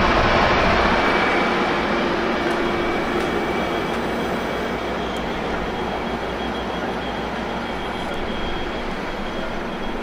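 Passenger train rolling along the rails, a steady rumble of wheels and cars that is loudest at the start and slowly fades as the train draws away, with a faint thin squeal on top.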